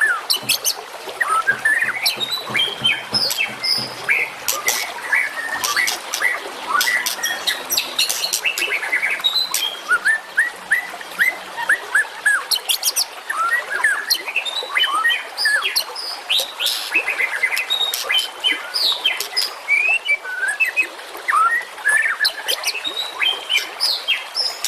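Many small songbirds chirping and whistling at once, a dense stream of quick overlapping notes broken by sharp high clicks. This is a masteran recording: songbird calls compiled to train contest birds such as the white-rumped shama.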